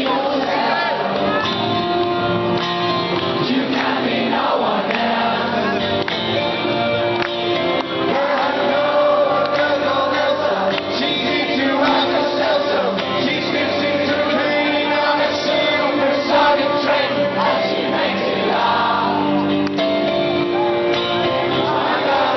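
Live rock band playing at full volume with a male voice singing, amid crowd noise in a large hall.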